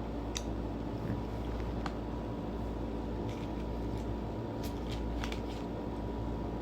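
Steady background hum with a few faint, short crunches and clicks scattered through it, bunched near the middle: a person chewing crunchy white-chocolate-coated pretzel bites.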